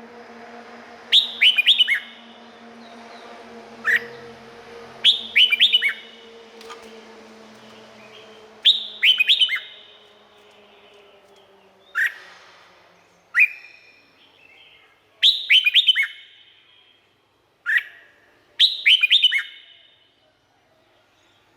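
Red-whiskered bulbul singing. It gives short phrases of quick, falling whistled notes every second or two, with single notes between them.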